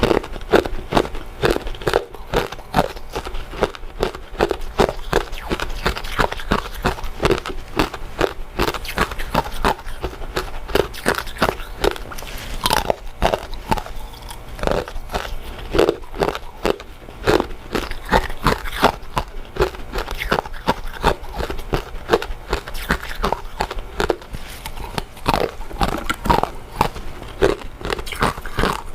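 Close-miked chewing and biting of soft, chewy glutinous rice desserts: a continuous run of quick, irregular clicking mouth sounds, several a second.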